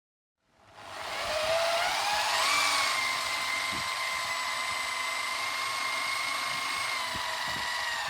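Electric power-tool motor starting up, its whine rising in pitch for about two seconds as it comes up to speed, then running steadily.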